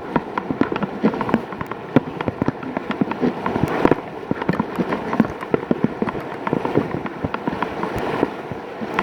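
River whitewater rushing and splashing around a kayak, with dense, irregular crackling pops of water splashing close to the kayak-mounted phone's microphone.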